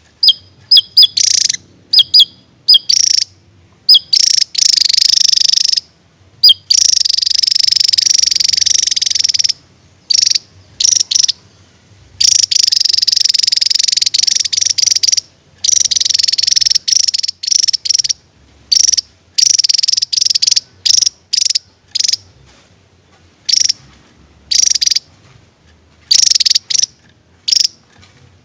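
Javan tesia singing its rapid 'tembakan' burst song: sharp high-pitched notes in the first few seconds, then long, fast, high runs of a few seconds each, broken by short pauses.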